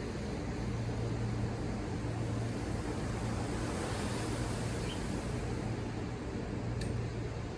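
Ocean surf washing below, one wave swelling in a soft hiss about halfway through, over a steady low hum. There is a short tick near the end.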